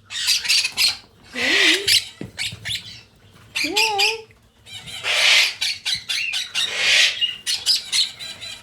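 Hand-raised Quaker parrot chicks begging for food with repeated harsh squawks and rapid chattering calls in bursts, the hunger calls of chicks waiting to be fed formula.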